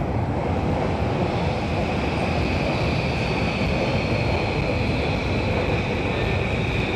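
Electric commuter train running alongside a station platform: a steady rumble with a thin, high whine held over it.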